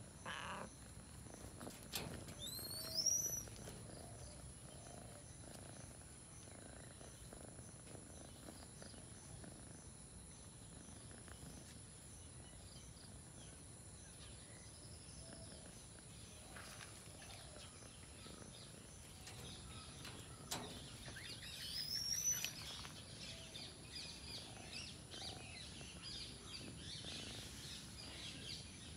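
Birds calling in the background, with a loud sweeping call about three seconds in and another about twenty-two seconds in, and scattered chirps near the end over a steady thin high tone.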